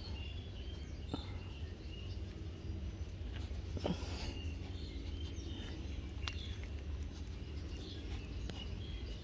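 Faint bird chirps, short high calls scattered throughout, over a low steady rumble, with a few soft clicks and a brief louder rustle about four seconds in.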